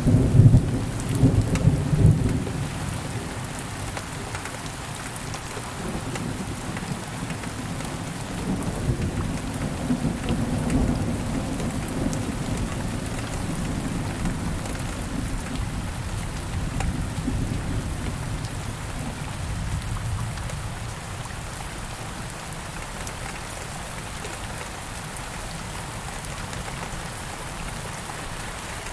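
Steady rain falling, with thunder rumbling loudest in the first couple of seconds and again more softly around ten seconds in, then dying away.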